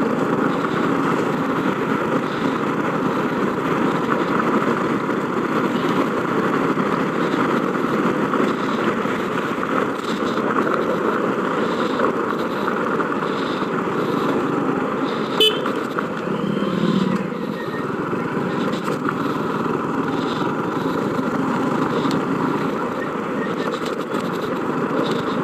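Motorcycle running steadily while riding through town traffic, its engine noise mixed with wind rush, with a short sharp sound about fifteen seconds in.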